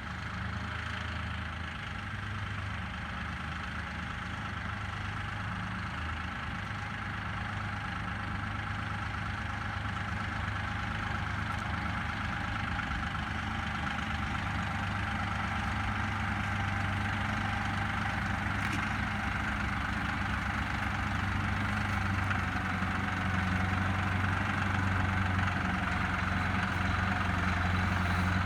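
Tractor engine running steadily with a low hum, growing gradually louder.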